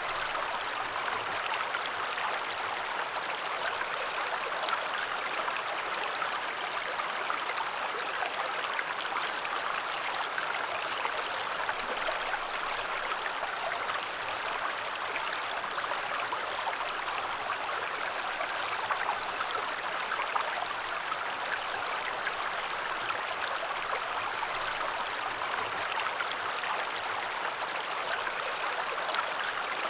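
Matsukawa river flowing: a steady, even rush of running water.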